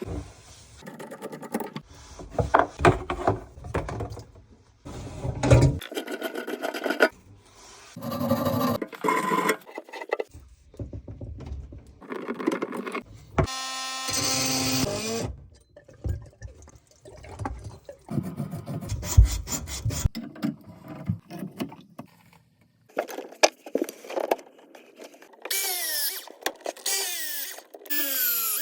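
Tool and handling sounds from plumbing repair work on a kitchen drain, in short clips that start and stop abruptly. There is a steady whine about halfway through and several falling whines near the end.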